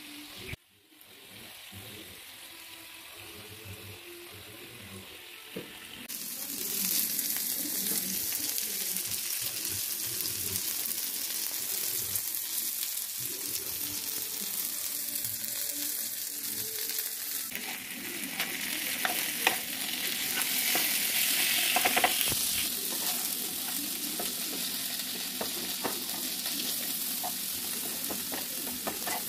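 Chicken pieces sizzling as they fry in oil in a nonstick frying pan, the sizzle turning much louder about six seconds in. In the later part a spatula stirs and scrapes frying onions in the pan, adding quick clicks and knocks over the sizzle.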